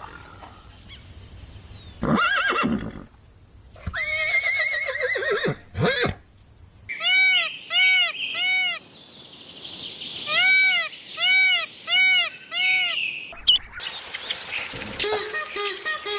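A succession of animal calls. There are two separate calls in the first six seconds, then two runs of short, evenly repeated calls that rise and fall in pitch, and a rapid chattering near the end.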